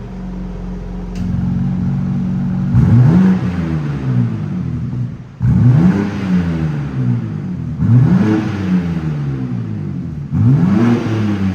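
BMW M2 (G87)'s S58 twin-turbo inline-six idling, then revved four times, each rev climbing and dropping back down.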